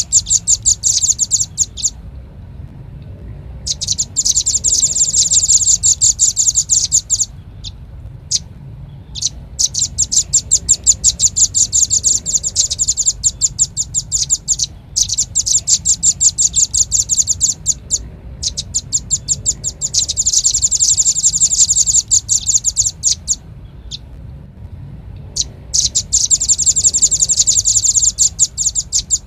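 Velvet-fronted nuthatch calling: rapid runs of high, sharp, chattering notes, each run lasting a few seconds, with short pauses between runs. A faint low hum sits underneath.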